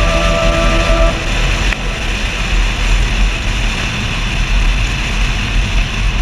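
Wind buffeting and road noise of a moving car, picked up by a camera mounted outside on the car door: a steady dense rumble with hiss. A few steady tones stop about a second in, and there is one sharp click a little later.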